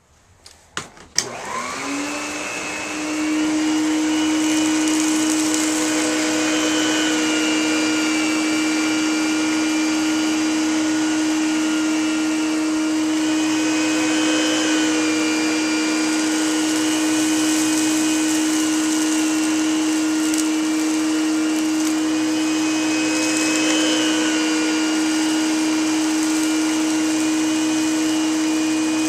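Electrolux Diplomat vacuum cleaner switched on with a few clicks, its motor spinning up over about two seconds and then running steadily with a strong, even hum and rushing air.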